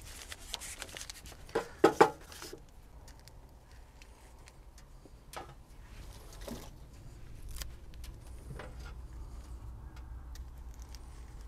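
Handling noise of clicks and knocks, two loudest about two seconds in, then a faint low rumble with a few scattered light clicks.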